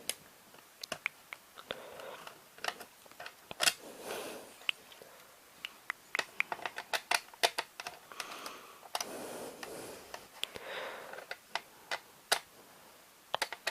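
Plastic VHS cassette shell and its parts being handled: irregular sharp clicks and taps with soft rustling in between.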